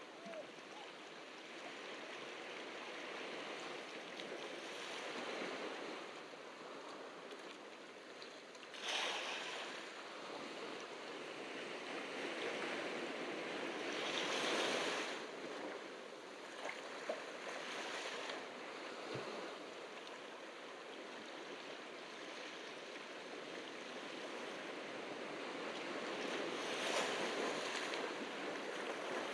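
Ocean surf washing onto a beach, a steady wash that swells as waves break louder about nine seconds in, again around fifteen seconds, and near the end.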